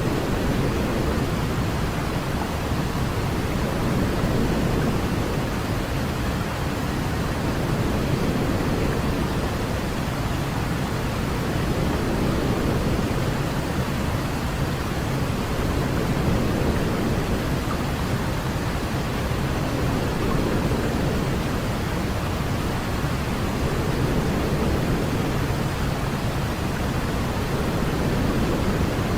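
Steady white noise played as a baby sleep aid: an even, deep hiss, heaviest in the low range, with slight slow swells in loudness.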